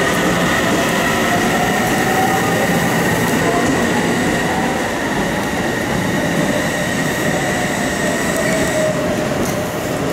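Electric commuter train in orange-and-green Tokaido Line livery moving along the platform: running noise of wheels on rail with a steady high whine.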